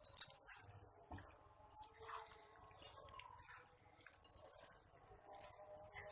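Cooking utensil clinking and scraping against the pan and dish as thick curry is spooned out into a serving dish, in short clinks about every second or so.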